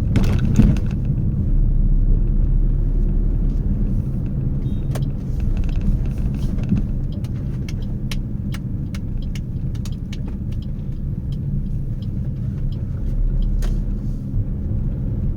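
Steady low rumble of a running motor vehicle, with scattered sharp clicks and ticks through the middle.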